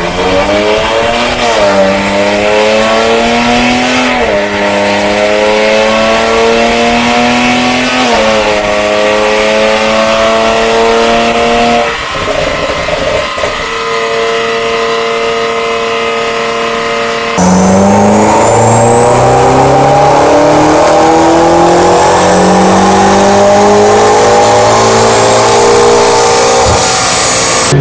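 BMW E92 335i's turbocharged 3.0-litre straight-six running under full load on a chassis dyno, its pitch climbing and dropping back at each upshift, about 2, 4 and 8 seconds in, then holding lower and steadier from about 12 seconds. At about 17 seconds it cuts to a second car on the dyno, its engine pitch rising under load.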